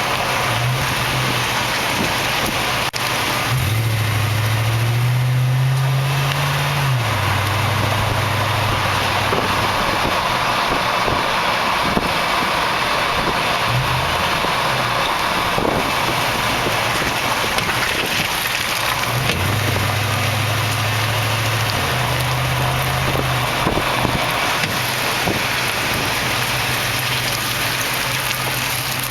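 2004 Toyota Tundra Double Cab 4WD driving over uneven ground: engine hum and road noise, broken twice by a pronounced clunk or pop from the rear end, the second one lighter. The knocks come as the body shifts side to side; this is the Tundra's known rear-end clunk, cause not yet found.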